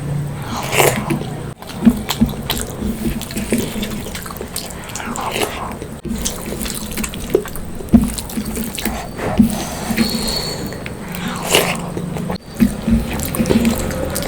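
Wet eating sounds from fish curry and rice, irregular squelches and clicks with a dripping quality.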